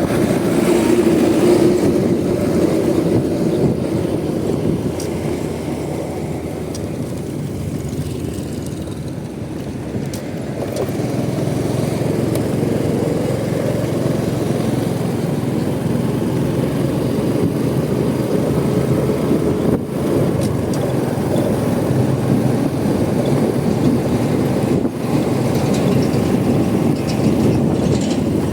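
Honda Supra X 125's single-cylinder four-stroke engine running on the move, mixed with road and wind noise. It quietens for a few seconds, then its pitch climbs as it picks up speed again.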